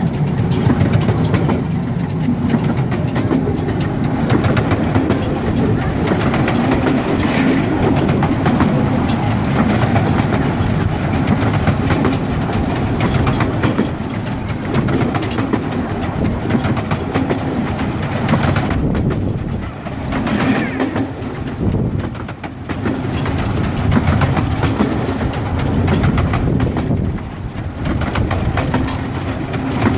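Small-gauge railway train running along the track: a steady low rumble of wheels and carriages that eases briefly about two-thirds of the way through.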